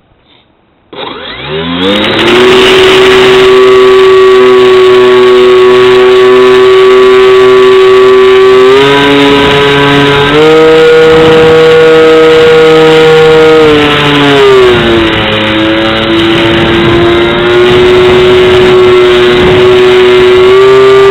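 Brushless electric motor and propeller of a foam RC plane spooling up about a second in, then running with a steady whine whose pitch steps up and down as the throttle changes.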